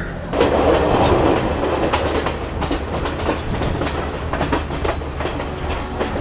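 Passenger train running on the rails: a steady low rumble with rapid, irregular wheel clacks over the track, growing louder about half a second in.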